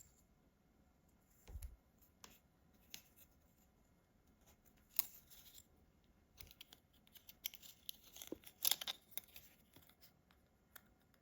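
Scattered faint clicks and scratchy handling noises of small parts and tools being worked on a bench, with a busier run of scratching and clicking about eight to nine seconds in.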